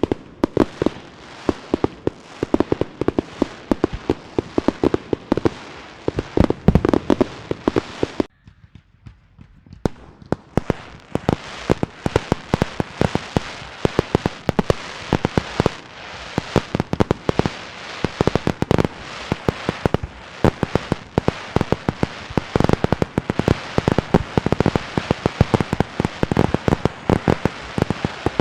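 Fireworks and firecrackers going off in fast, irregular volleys of sharp bangs and crackling. The bangs stop for about two seconds some eight seconds in, then start again just as densely.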